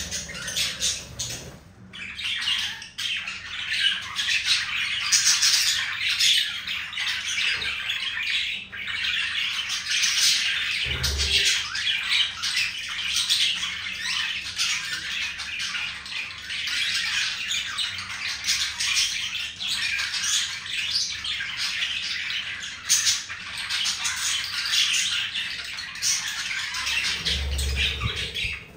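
Budgerigars chattering and warbling, a dense unbroken stream of chirps and squawks, with a couple of brief low thumps, one about eleven seconds in and one near the end.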